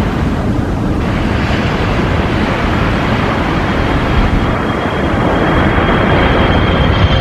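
Jet airplane engine sound, a steady loud rush with a high whine that comes in about halfway and grows toward the end.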